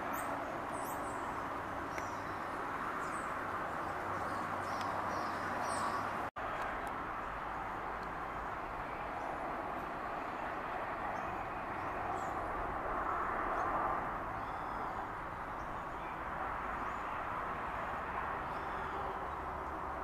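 Small birds giving short, high chirps over a steady background rush, the chirps busiest in the first few seconds and fainter later. The sound cuts out for an instant about six seconds in.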